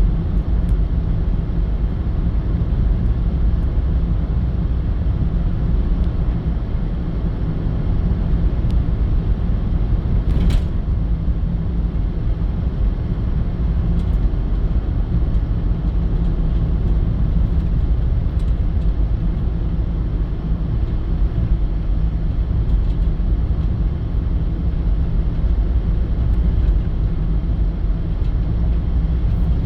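Steady low rumble of a moving vehicle's road and engine noise, with one brief sharp click about ten seconds in.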